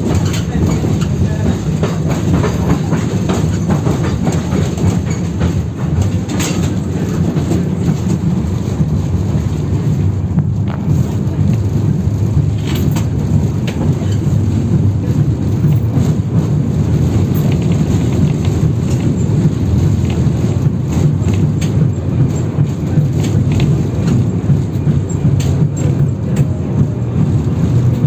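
Inside a 71-608KM tram under way: a steady low rumble of wheels on rail, with frequent knocks and clatter from the car riding over the route's badly worn track.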